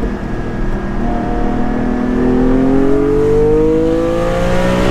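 Porsche 718 Cayman GT4's naturally aspirated flat-six heard from inside the cabin, holding a steady note for about two seconds, then accelerating through a gear with its pitch rising steadily.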